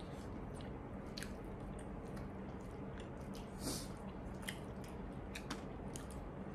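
Close-up chewing and biting of burgers: soft, wet mouth smacks and clicks scattered throughout, with one louder brief noisy sound a little past halfway.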